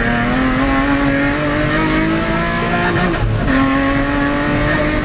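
BMW 325i E36's 2.5-litre straight-six at full throttle, heard from inside the cabin, its revs climbing steadily. About three seconds in the revs drop briefly at an upshift, then climb again.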